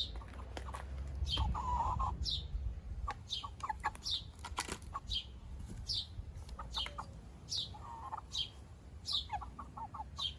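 Birds calling: a short, high, falling chirp repeated about every 0.7 s, with lower warbling calls now and then, over a low rumble.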